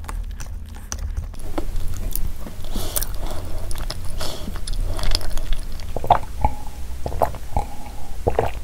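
Close-miked chewing of a chocolate dessert, with a plastic spoon scraping and clicking against the inside of a plastic container. Near the end come a few swallows from a cup.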